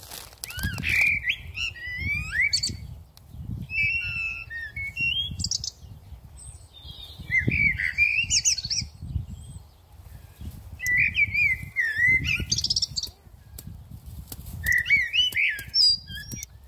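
Songbird calls: five bursts of varied chirps and gliding whistles, a couple of seconds apart. A low rumble of wind on the microphone runs underneath.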